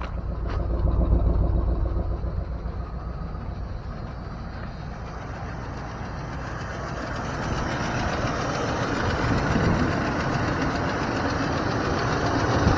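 1987 Dodge D100 pickup's engine idling, freshly started. It runs steadily, with a heavy low rumble in the first couple of seconds, and grows louder about seven seconds in.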